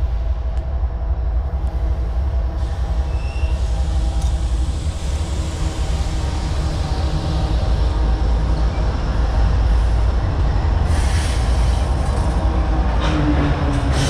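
A freight train pulling in to stop, its diesel locomotive's engine running over a steady low rumble of rolling cars. A sharp high-pitched screech comes in about eleven seconds in and again near the end.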